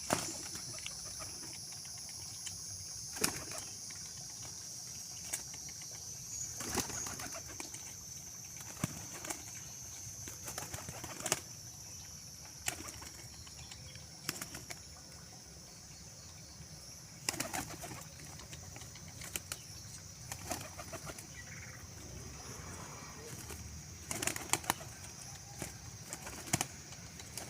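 Pigeons' wings flapping in short, irregular bursts, over a steady high hiss.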